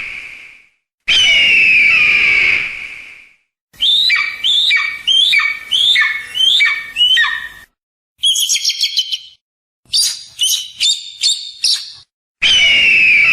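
Eagle and hawk calls played one after another. A long call falls in pitch, then comes a series of about seven rising-then-falling calls, then a rapid high chatter and a run of short high calls, and another long falling call near the end.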